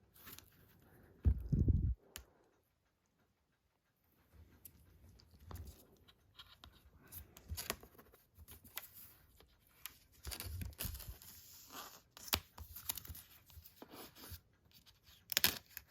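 Hands working at the packaging of a boxed Blu-ray set, trying to tear it open: scattered scratching, crinkling and tearing sounds. A dull, low thump comes about a second in.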